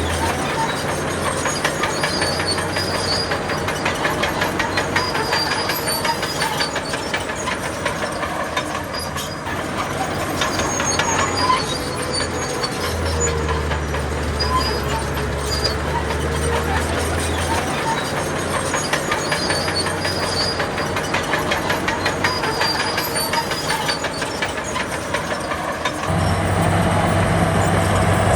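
Heavy diesel earthmoving machinery running, with a dense, steady clatter like crawler tracks over low engine tones that come and go. Near the end a louder, deeper engine hum sets in.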